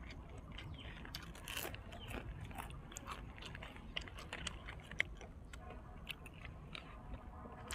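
A man chewing and biting crisp food close to the microphone, with many short crunching clicks and a sharper crunch about five seconds in.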